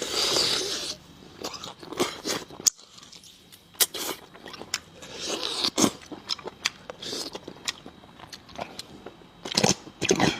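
Close-miked eating: biting, chewing and sucking on spicy braised meat on the bone, with many sharp wet mouth clicks and a few louder slurping smacks.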